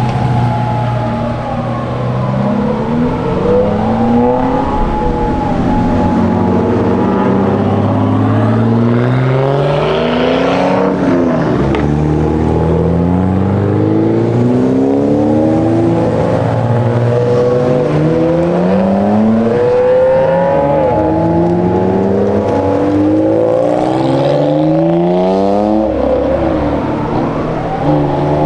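Modified car engines accelerating hard, revving up through the gears in repeated rising sweeps that drop back at each shift, several cars overlapping as they pull away.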